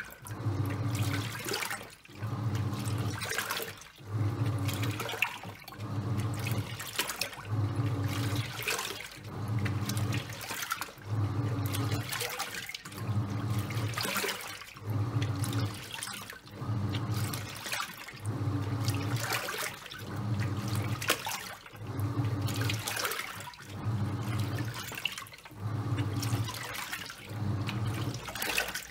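Top-loading washing machine agitating a load of towels: the pulsator's motor hums in regular pulses every second or so as it turns back and forth, with water sloshing and splashing in the drum.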